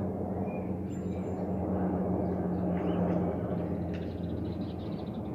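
Aircraft passing overhead: a steady rumble with a low droning tone that fades out about four seconds in. A few faint bird chirps sound over it.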